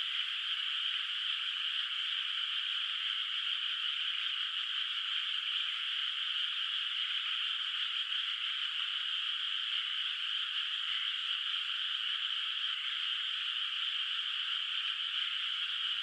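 Chorus of many rice-paddy frogs calling at once, merging into a steady, unbroken high-pitched din.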